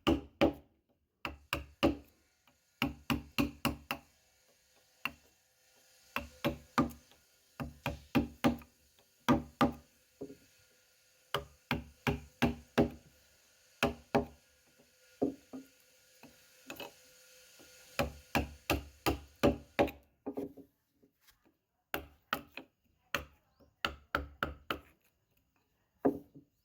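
A mallet striking a wood-carving chisel into wood, in quick runs of about four or five knocks a second separated by short pauses.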